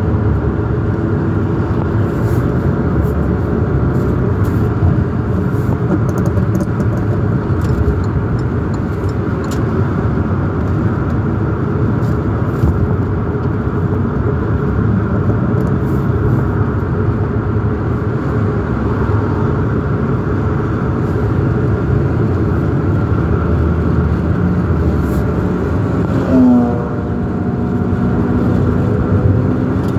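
Sports car engine running with a loud rattle and scattered sharp pops. Near the end there is a brief louder sound that bends down in pitch.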